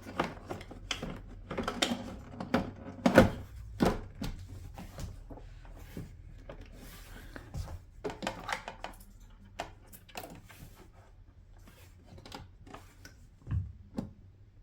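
Plastic center-console parts and a wiring connector being handled and fitted together: scattered clicks, taps and knocks, the loudest a few seconds in and fainter and sparser through the middle.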